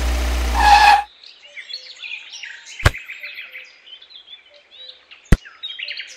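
Small birds chirping and singing, with two sharp clicks about two and a half seconds apart. An engine running cuts off about a second in, just before the birdsong starts.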